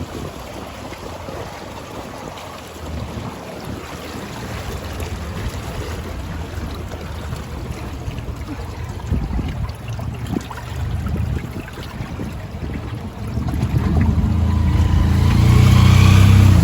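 Wind buffeting the microphone over open floodwater. A louder low rumble builds over the last few seconds.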